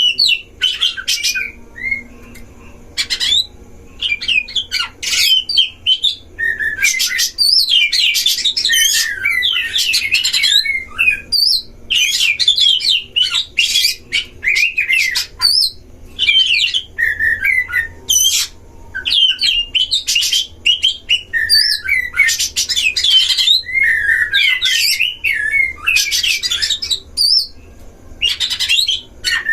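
Oriental magpie-robins (kacer) singing against each other in a territorial duel: rapid, varied whistled phrases in bursts of a second or two, with short pauses between them.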